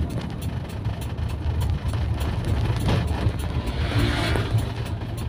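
Inside the cabin of a 1987 Toyota Kijang Super as it is driven: steady low engine and road drone from the carbureted engine, with a brief rush of noise about four seconds in.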